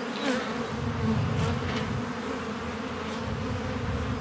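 A mass of honeybees buzzing around an opened hive in a steady, dense hum.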